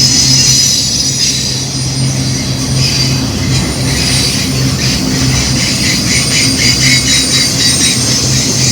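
Intermodal freight train cars rolling past, with a steady low rumble and a high-pitched wheel squeal. A rapid clatter of wheels over the rails joins in from about halfway through.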